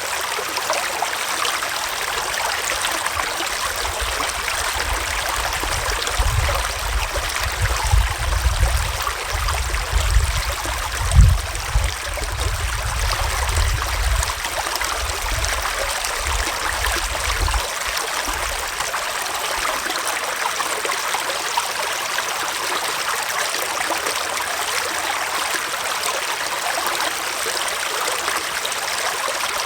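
Gentle forest stream flowing steadily over rocks, an even rush and trickle of water. Irregular low rumbling swells under it for several seconds, strongest about eleven seconds in.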